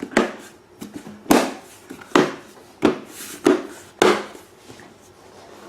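Plastic generator cabinet panel being handled and fitted into place: about six sharp knocks and clunks, spaced half a second to a second apart, ending near the end.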